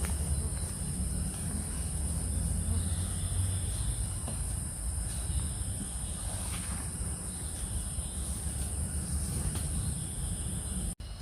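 Crickets or other night insects shrilling in a steady, unbroken high chorus over a low rumble, with a few faint clicks; the sound cuts out for an instant near the end.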